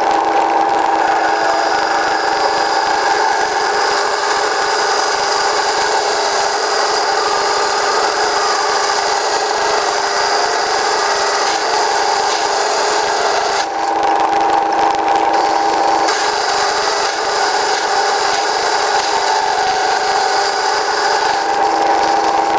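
A 5/8 drill opening out a pilot hole in thick steel plate at slow speed: a steady cutting run with a constant ringing tone over the cutting noise. The tone eases off briefly about two-thirds of the way through, then carries on.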